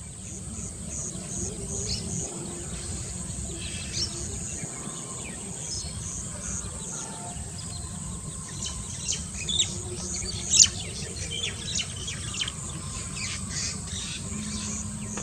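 Wild birds calling: a run of short high notes repeated evenly, then scattered sharp chirps, the loudest about ten and a half seconds in, over a steady low rumble.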